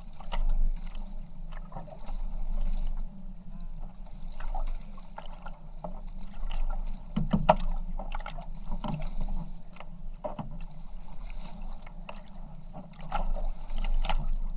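Kayak paddles dipping and splashing in water, irregular strokes over a steady low rumble.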